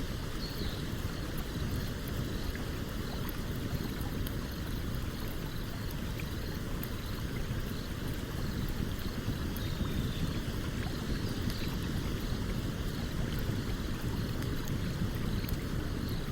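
Stream water running steadily, with the faint scattered crackling pops of a campfire.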